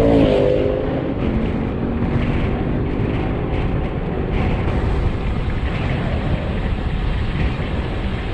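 Wind rushing over the microphone on a road bicycle descending at speed, a steady low roar. At the start a passing motor vehicle's engine drops in pitch as it goes by and fades within about a second and a half.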